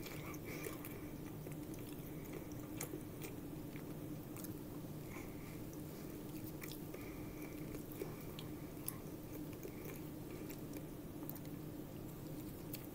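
A person chewing and biting into a beef burger close to the microphone, with scattered sharp mouth clicks. A steady low hum runs underneath.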